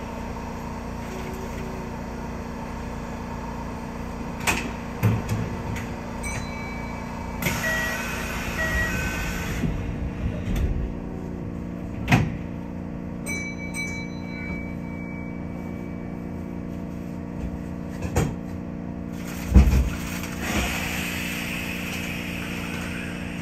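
Kintetsu train standing at a station platform: a steady hum from its onboard equipment, with several sharp knocks and a few short high electronic beeps and tones. A hiss rises near the end.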